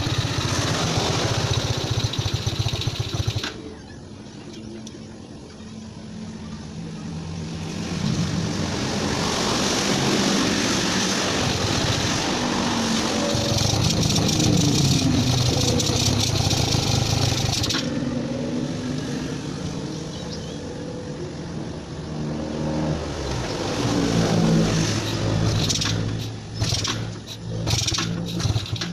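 Yamaha Vega motorcycle's small single-cylinder four-stroke engine running and being revved: loud for the first few seconds, then low, a long rev held high through the middle, and several short throttle blips near the end.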